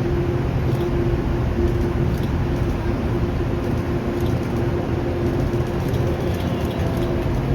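Engine of a large commercial whale-watching boat running steadily under way, a constant drone with a steady hum.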